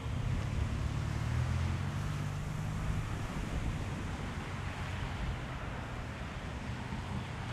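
Wind buffeting the action camera's microphone: an uneven low rumble that swells in gusts, heaviest in the first three seconds and easing after, over a light rush of wind.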